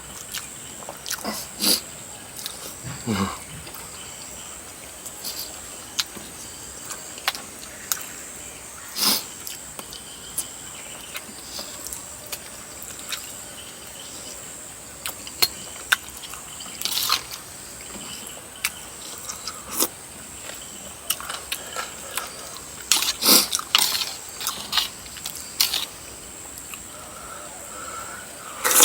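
Close-up eating sounds: a person chewing and sucking on chicken feet in coconut curry, with irregular wet smacks, slurps and clicks. Busier near the end.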